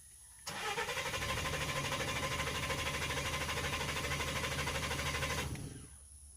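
Starter cranking a 2006 Nissan Frontier's 4.0 V6 for about five seconds without it firing, with an even pulsing rhythm. This is a crank/no-start with the cam timing off on both banks, which the mechanic puts down to a stretched or jumped timing chain or bad cam phasers.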